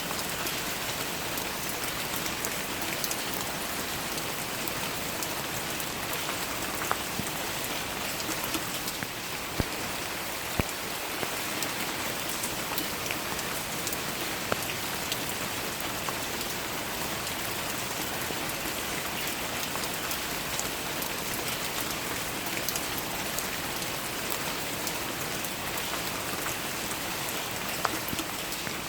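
Steady rain falling, an even hiss of many drops, with now and then a single louder drop striking close by.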